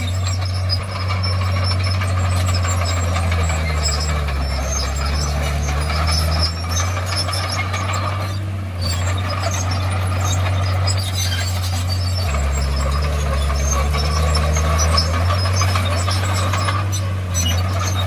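Komatsu D51PX bulldozer's diesel engine running under work, with the squeal and clatter of its steel tracks. The engine's low note drops twice for a few seconds, about four seconds in and again about twelve seconds in.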